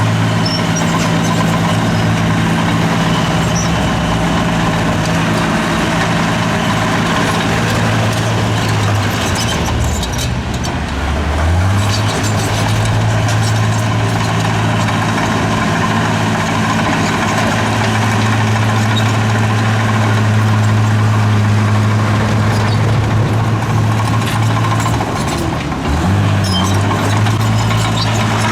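Heavy diesel engine of an earthmoving machine running steadily under load. Its pitch dips and climbs back twice, about eleven seconds in and again near the end, as the engine is throttled down and up.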